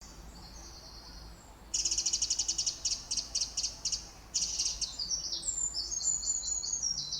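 Birdsong: faint high chirps, then about two seconds in a loud, rapid trill of repeated high notes, and after a brief pause about four seconds in another fast run of notes stepping up and down in pitch.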